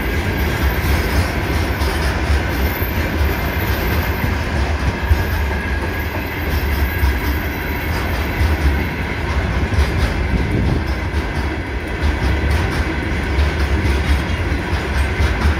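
Freight train of railway tank cars rolling past close by: a steady rumble of steel wheels on the rails, with occasional clacks from the wheels.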